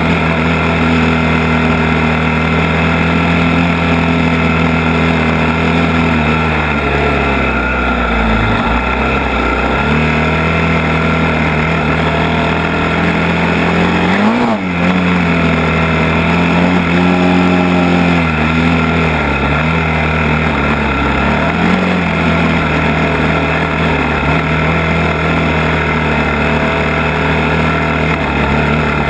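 ATV engine running under way, its pitch rising and falling with the throttle and dropping sharply twice, about eight and fourteen seconds in.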